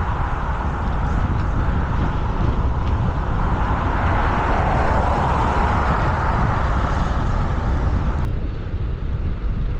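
Wind rushing over the microphone of a bicycle rider speeding down a steep hill, a loud steady rush with a heavy low rumble. About eight seconds in, the higher part of the rush drops away suddenly, leaving mostly the low rumble.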